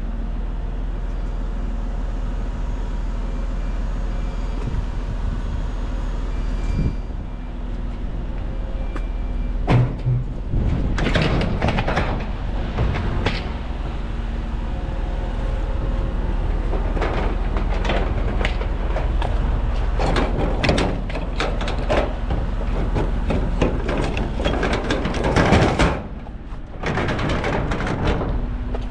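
A truck engine running steadily, with a run of clanks, knocks and rattles from about ten seconds in that grow busier toward the end.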